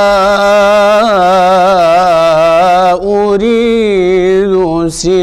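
A male munshid singing an Islamic ibtihal (devotional supplication) solo, holding one long ornamented melismatic line with quick wavers in pitch. There is a short break about three seconds in, and the next word starts near the end.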